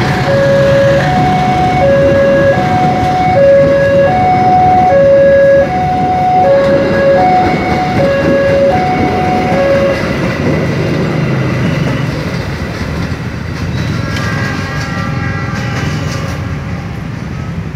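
Passenger coaches of a train rolling past on the rails, with a loud steady rumble that fades as the last coach moves away. Over it, the level crossing's warning signal alternates between a low and a higher tone, each held under a second, until it stops about ten seconds in. A brief higher-pitched tone comes near the end.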